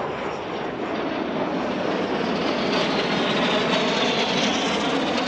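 Jet aircraft flying past: a loud rush of engine noise that builds to a peak about four seconds in, with a high whine sliding down in pitch.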